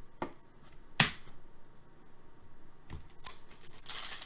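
Trading cards and their packaging handled by hand: a few light clicks, a sharp snap about a second in, then a stretch of crinkly rustling near the end.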